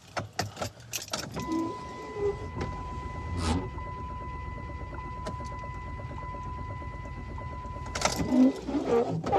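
A car's electrical system coming alive after the key is worked in the ignition: a few clicks, then a steady single-pitched warning tone that sounds for about seven seconds over a low, even hum, and stops near the end.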